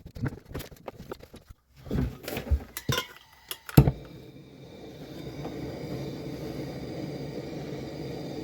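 Metal clinking and knocking of tools and fittings being handled, the loudest knock just before halfway. Then a steady machine hum with a faint whine sets in and holds.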